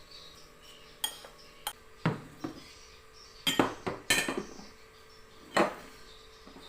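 Cooking utensils knocking and clinking against pots and pans: about ten sharp strikes at irregular intervals, several with a short ring, the loudest a little past halfway.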